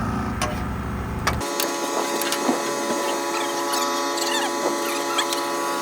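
A steady hum of several pitches with a few faint clicks, which replaces a low rumble about a second in.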